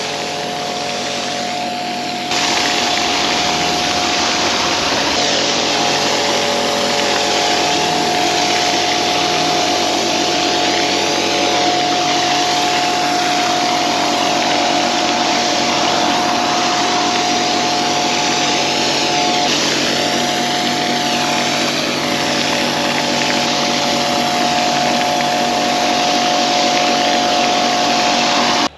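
A cleaning machine's motor running steadily with a constant whine under a loud, shifting rush of spray or air. It gets louder about two seconds in and cuts off suddenly at the end.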